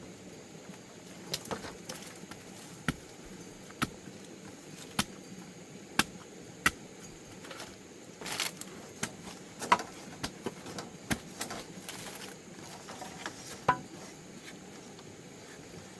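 Irregular sharp taps and knocks, a couple of dozen spread unevenly over a steady low background hiss, a few louder than the rest.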